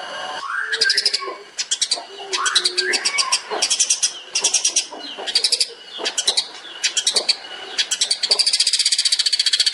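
Long-tailed shrike (cendet) singing in its rapid-fire 'tembakan' style: short runs of very fast, sharp repeated notes broken by brief gaps and lower sliding whistles, then a long unbroken rapid trill near the end.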